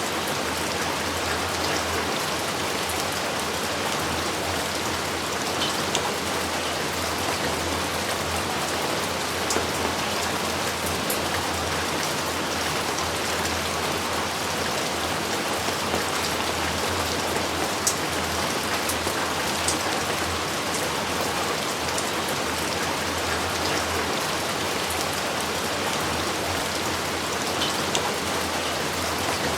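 Heavy rain falling steadily, with a few sharper drop hits standing out here and there.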